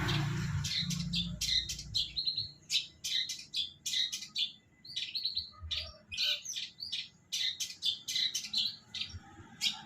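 Long-tailed shrike (cendet) singing a fast, varied run of short chirps and chattering notes, with a low rumble underneath that fades out about two seconds in.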